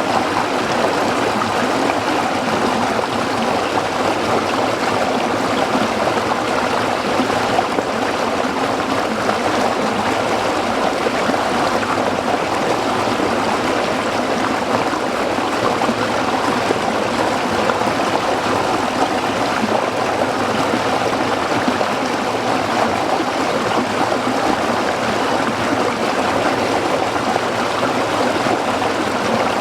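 A stream of water flowing and babbling over rocks, steady and continuous.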